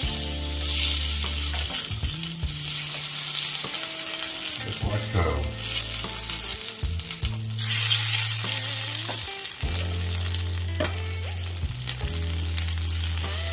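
A baked potato half sizzling as it fries in hot oil in a nonstick frying pan, pressed flat with a spatula. The sizzle is a steady, dense hiss.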